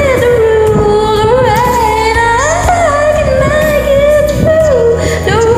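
A voice singing long held notes that slide and bend between pitches, with no clear words, over a pop ballad backing track.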